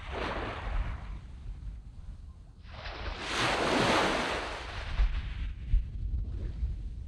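Sea waves breaking and washing up a sandy beach. There is a small wash just after the start, then a larger wave swells to a peak about four seconds in and fades, and a faint wash follows near the end. Wind rumbles steadily on the microphone throughout.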